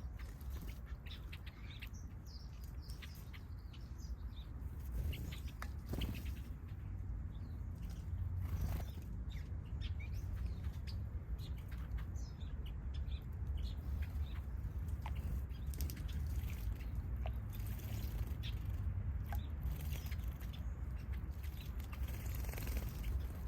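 Small aviary finches and softbills chirping and twittering in short, scattered calls, with bursts of splashing and wing-fluttering as birds bathe, over a steady low rumble.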